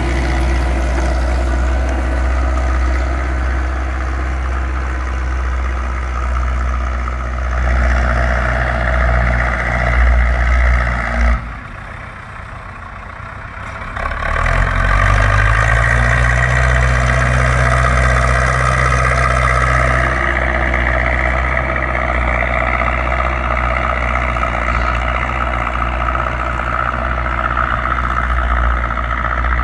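Zetor tractor's diesel engine running steadily under load while pulling a plough. About eleven seconds in it suddenly goes quieter for a couple of seconds, then climbs back up in pitch and runs on steadily.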